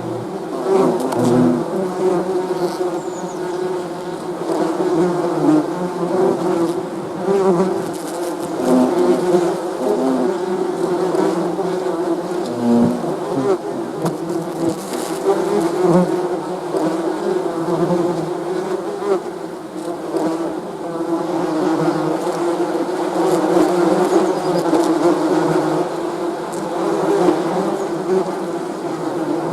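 Many bees buzzing together, a steady dense hum with individual bees' tones rising and falling as they pass close.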